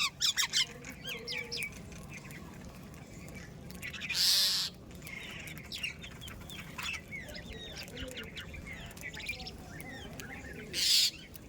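A flock of birds feeding, with many short, quick chirps throughout. Three brief loud rustles break in: near the start, about four seconds in, and near the end.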